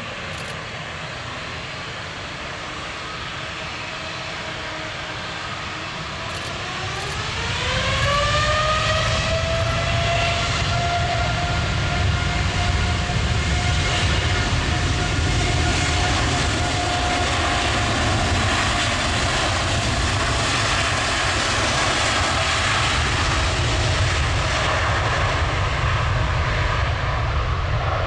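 Twin turbofan jet engines of a Boeing 787-9 Dreamliner spooling up to takeoff thrust: a rising whine about seven seconds in, then a steady, louder jet roar with a held whine through the takeoff run.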